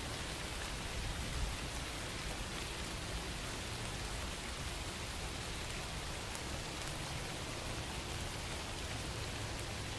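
Steady rain falling, an even hiss with a low rumble underneath and a slight swell about a second in.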